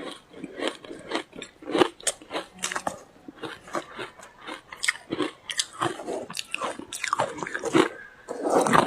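Close-miked biting and chewing of ice: irregular crunches, several a second, with a louder dense run of crunching near the end.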